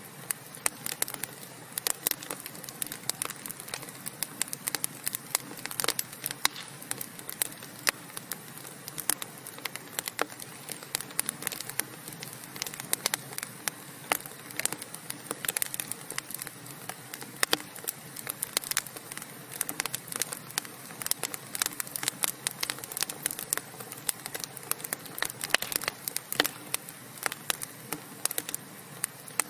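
Wood logs burning in a fireplace, crackling steadily: dense, irregular pops and snaps over a soft hiss.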